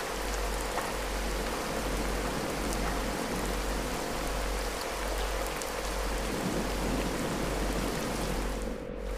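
Steady rain with scattered drop ticks, layered with a few held mid-pitched tones and a low hum that pulses about once a second, typical of a rain track mixed with binaural-beat tones. The rain dips briefly near the end.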